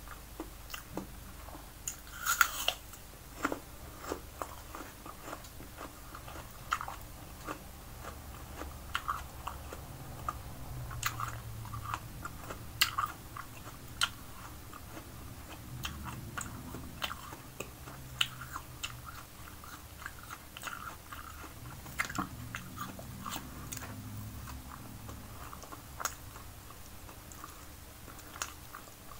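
Close-up chewing and biting of steamed fish and raw red bell pepper, with crisp crunches and short sharp mouth clicks scattered throughout; the loudest crunch comes about two seconds in.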